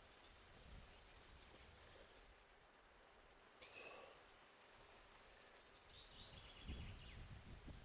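Faint birdsong in quiet outdoor surroundings: a short high trill about two seconds in, a brief whistle-like note, then another short trill near the end.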